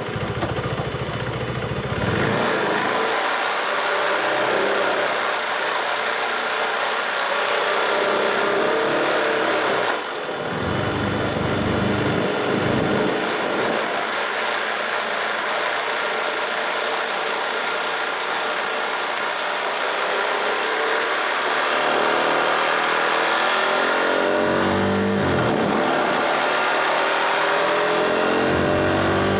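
KTM RC 390's single-cylinder engine running at road speed, with a steady rush of wind and road noise. The engine note drops out briefly about ten seconds in and again later, and the revs climb near the end.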